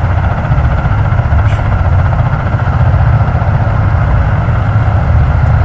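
Three V-22 Osprey tiltrotors running at ground idle: a loud, steady low rumble with a fast flutter from the turning proprotors, before the power is brought up for departure.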